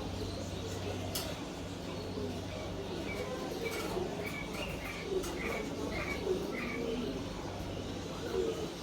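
Caged pigeons or doves cooing, with small birds giving a run of short, evenly spaced chirps in the middle.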